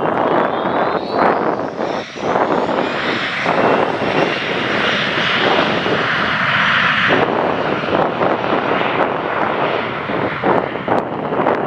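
Embraer ERJ-145XR regional jet's twin Rolls-Royce AE 3007 turbofans at takeoff power: a loud, steady jet roar, with a faint high whine rising in pitch over the first few seconds.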